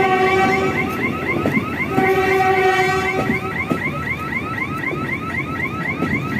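Train horn sounding in long steady blasts, one at the start and another from about two seconds in, over a fast warbling chirp that repeats about four or five times a second throughout.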